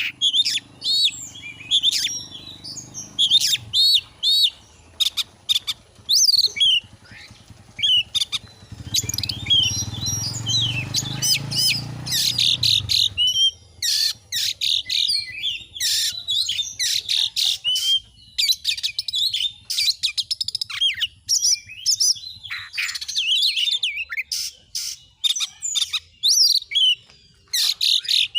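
Oriental magpie-robin (kacer) singing hard: rapid, varied chirps, whistles and sharp notes in bursts separated by short pauses. A faint low rumble sits underneath for a few seconds midway.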